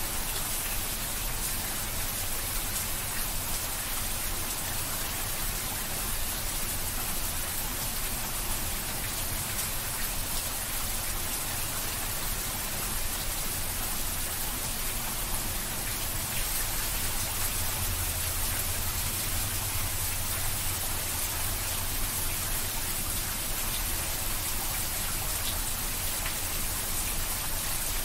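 Steady rain falling, an even patter of many drops that neither builds nor fades.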